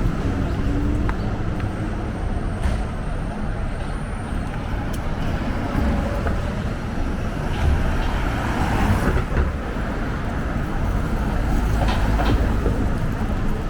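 City street traffic: motor vehicles running and passing, a steady low rumble with a few faint clicks.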